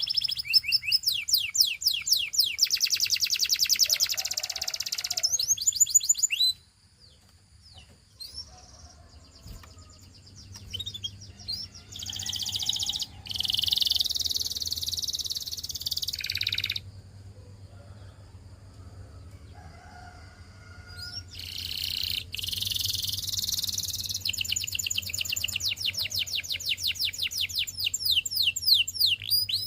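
Canary singing: fast runs of repeated sweeping notes, with long rolling trills, a quiet gap of a few seconds about a quarter of the way in, and the song starting up again.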